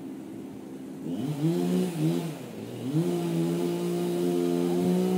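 Chainsaw revved up twice, dropping back between, then held at high, steady full throttle as if cutting.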